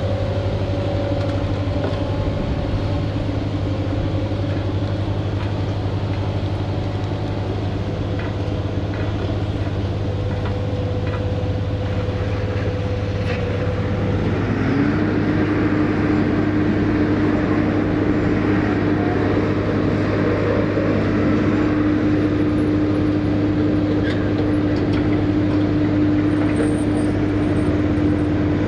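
Heavy diesel engine running steadily at idle. About halfway through, its speed rises a little and holds at a higher, steady pitch.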